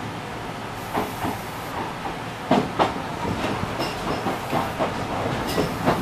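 Enshu Railway 2007F electric train running, heard from inside the front cab: a steady running rumble with the wheels clicking over track joints, mostly in pairs, three times.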